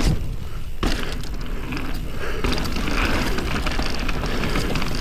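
Polygon Colossus N7 mountain bike riding down a rocky dirt trail: tyres rolling over dirt and rock, with the frame and chain rattling. The noise drops away briefly near the start and comes back with a sharp thump about a second in, like the bike landing.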